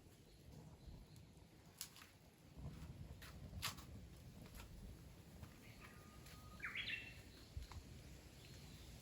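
Quiet outdoor ambience with a few faint sharp clicks, and a short bird call about seven seconds in: a held note that jumps up in pitch.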